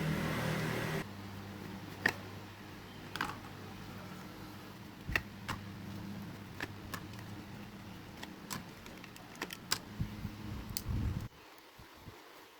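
Scattered sharp clicks and taps, like small plastic parts being handled, over a steady low hum that stops abruptly near the end.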